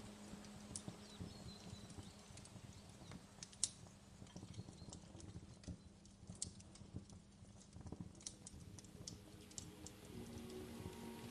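Wood fire crackling: irregular small snaps and pops over a soft hiss, with one sharper pop a few seconds in.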